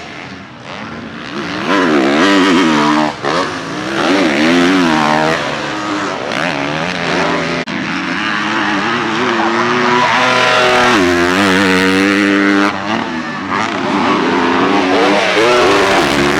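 Motocross bikes running on the track: engines revving hard and shutting off over and over, so the pitch keeps rising and falling, with the loudness dipping briefly a few times.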